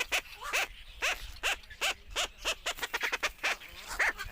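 Herons calling: a rapid series of short, harsh calls, each rising and falling in pitch, about two or three a second and quickening briefly past the middle.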